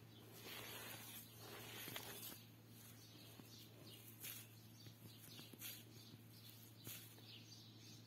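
Near silence: faint bird chirps repeating in the background over a low steady hum.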